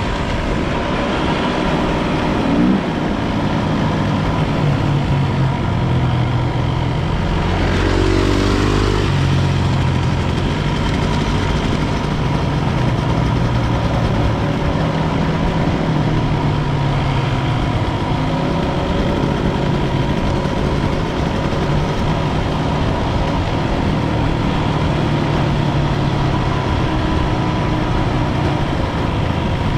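Enduro dirt bike engine running under way, its pitch stepping up and down with throttle and gear changes, with two short rising revs early on.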